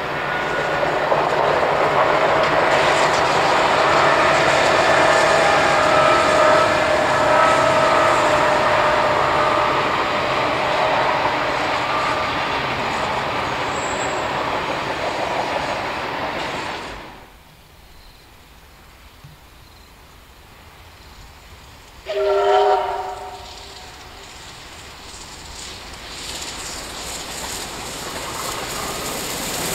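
Steam locomotive 3801 and two diesel locomotives pass hauling passenger carriages, a loud steady rolling of wheels on rail with some sustained whine. About 17 seconds in the sound drops away abruptly. A little over 22 seconds in there is one short whistle blast from the approaching train, and its noise then builds toward the end.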